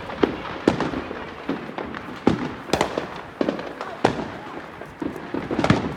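Fireworks going off: irregular loud bangs, roughly one or two a second, some echoing, with fainter pops and crackle between them.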